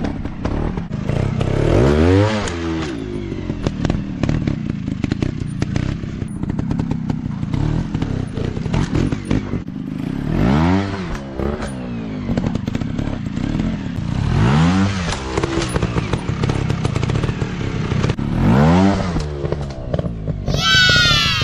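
Dirt bike engine revving up and dropping back again about four times over steady running, with scattered clattering. Near the end a higher-pitched engine note falls away.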